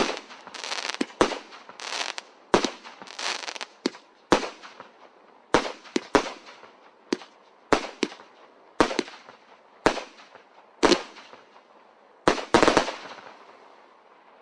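The Magic & Miracle 'Oceanic' firework firing a string of sharp bangs about once a second, each followed by a brief fading hiss. The last two shots come close together near the end, then the sound dies away.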